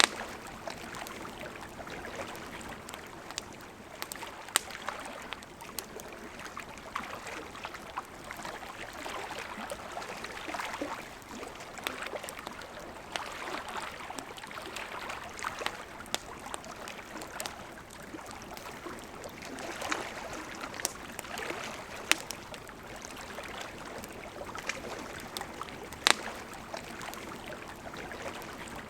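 Campfire crackling with scattered sharp pops, a few louder ones, over the steady rush of flowing river water.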